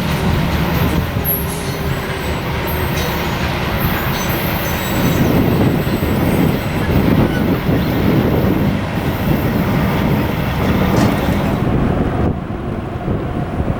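A train rolling by on the rails: a steady rumble of wheels and cars that grows louder about five seconds in. Near the end the sound changes abruptly, losing its hiss.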